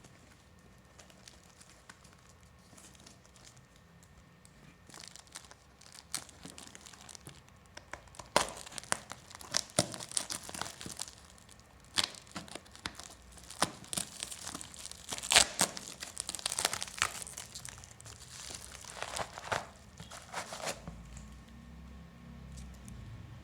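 Parcel packaging being crinkled and torn open by hand: irregular crackling and rustling, sparse at first, then dense from about a third of the way in, before dying away near the end.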